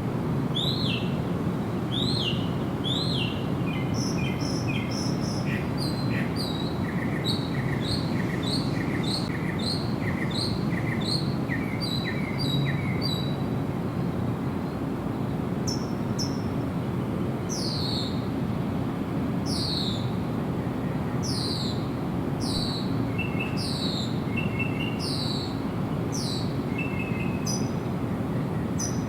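Birds calling over a steady low background hiss. The calls are repeated short chirps that sweep downward, at about one a second, with a run of quicker short notes in the middle.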